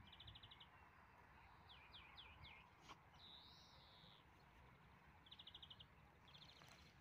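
Faint small-bird calls: three short, rapid trills, a quick run of down-slurred notes and one longer note, over a light background hiss.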